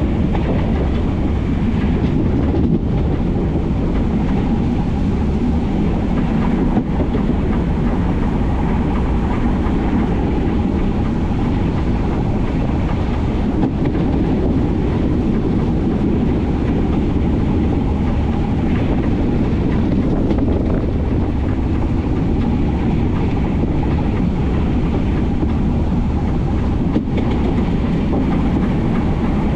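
Metre-gauge train running steadily along the line: a continuous rumble of wheels on rail, with a few faint knocks from the track.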